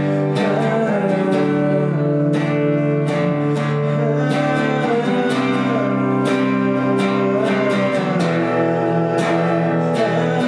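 Acoustic guitar strummed in a steady rhythm, live song accompaniment.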